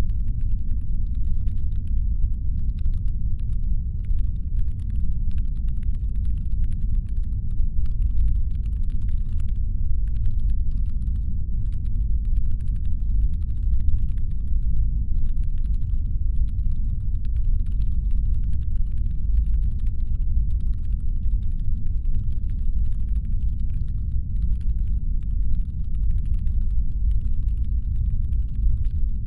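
Steady deep brown-noise rumble, presented as a spaceship's engine hum, with faint irregular crackling ticks scattered above it.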